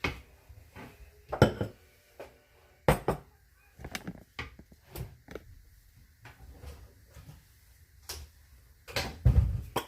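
Metal baking pan and kitchen items clattering as they are handled: a string of separate knocks and clinks, with the heaviest thump near the end.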